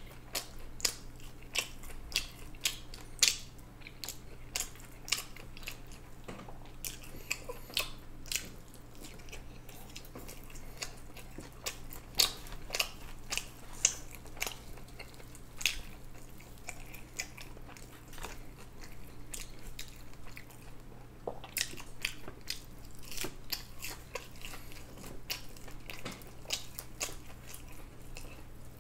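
A person chewing and biting food close to the microphone: irregular sharp mouth clicks and crunches.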